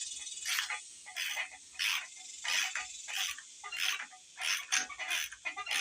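Hand ratchet clicking in short bursts on each back-swing, about ten strokes, roughly one every two-thirds of a second, as engine bolts are worked loose.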